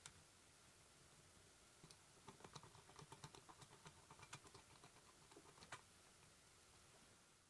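Faint, irregular light clicks and taps over quiet room hiss, clustered in the middle of the stretch and fading out near the end.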